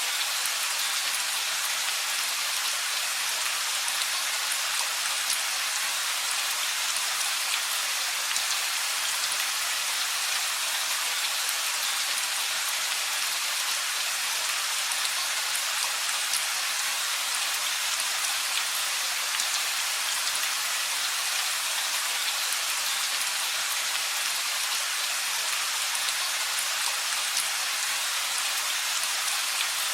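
Steady rain, with many fine drop ticks in an even hiss that stays level, with no thunder.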